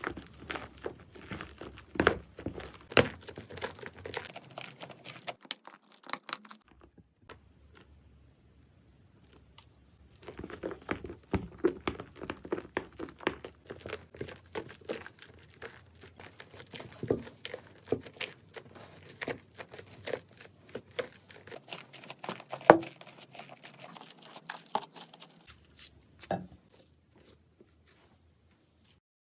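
Slime being squeezed, stretched and poked by hand, giving rapid crackly clicks and small pops. It goes in two stretches with a pause of a few seconds after about six seconds, with one sharper snap a little past the three-quarter mark, and stops a few seconds before the end.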